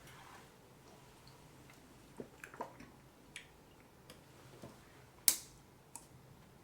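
Scattered faint clicks and taps from handling a drink, with one sharp click about five seconds in.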